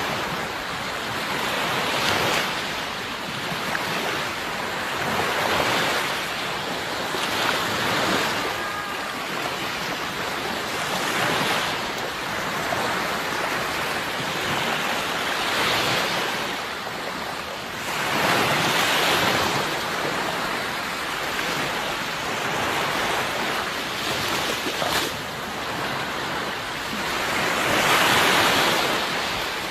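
Sea waves breaking and washing on the shore in repeated surges every few seconds, the largest about two-thirds of the way through and near the end.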